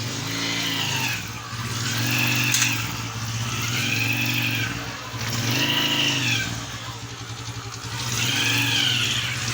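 Honda CG 125's single-cylinder engine blipped about five times, each rev rising and falling, with a whine from the clutch box that follows the revs. This whine is the clutch-box hum under check, which the mechanic suspects comes from a worn gear.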